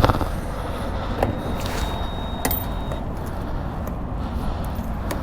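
Steady low rumble of vehicles at a gas station, broken by a few sharp clicks and knocks, and a short high steady beep just after the first second or so.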